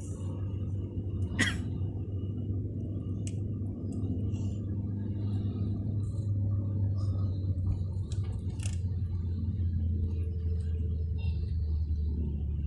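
Steady low rumble of a vehicle, as heard from inside it, with a few scattered sharp clicks.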